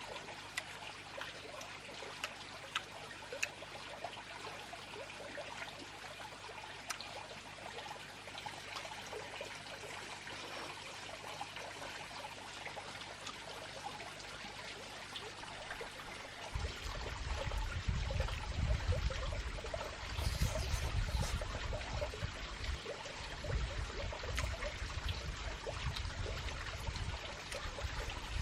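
Water running and trickling steadily, with scattered small clicks. A little over halfway through, a heavy low rumble joins in and continues.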